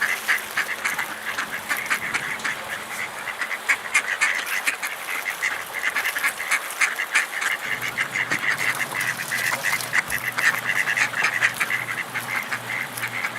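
A flock of ducks quacking, many short calls overlapping in a continuous busy chatter, typical of ducks crowding in for bread.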